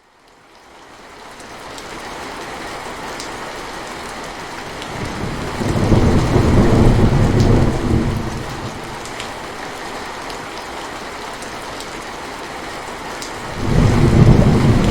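Steady rain falling, fading in from silence over the first couple of seconds, with scattered sharp drip ticks. A long low rumble of thunder comes about five seconds in, and another starts near the end.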